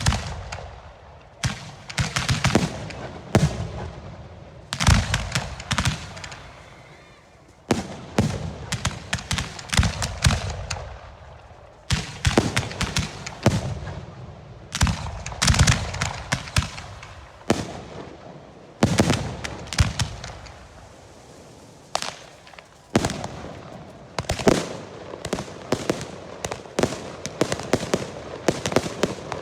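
Volleys of Portuguese festival rockets (girândolas) bursting in loud, irregular bangs, clustered in rapid runs with echoing tails between them. Over the last few seconds the bangs come faster and more evenly.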